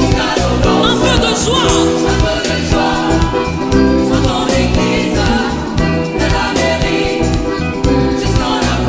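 Gospel choir singing a joyful hymn over a band, with a steady, rhythmic bass beat.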